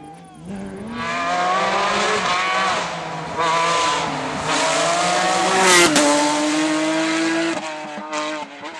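Porsche 911 rally car's flat-six engine revving hard, its pitch climbing and dropping several times through gear changes, loudest about six seconds in as it passes at speed.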